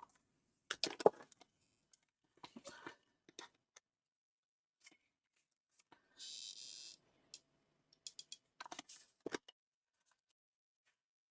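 Faint rustles and light taps of folded paper pieces being handled and pressed together, with a short hiss about six seconds in.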